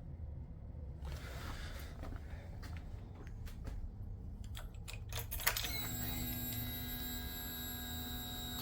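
A series of light clicks, then a sharp click and a steady electric whine for about three seconds: a 2005 Suzuki SV650 being switched on before cranking, the whine typical of its fuel pump priming.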